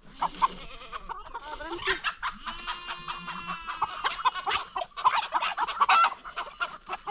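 Chickens clucking and squawking, many short calls overlapping. Two brief rustling noises come in the first two seconds.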